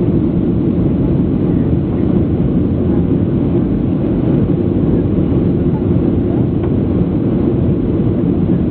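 Steady low cabin roar inside a Boeing 737-800 in flight: the noise of its CFM56-7B turbofan engines and the airflow over the fuselage, even and unchanging throughout.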